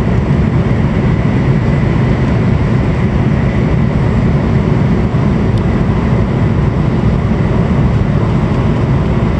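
Steady low rumble of a Hokuriku Shinkansen train running along the line, heard inside the passenger cabin, with a faint steady whine over it.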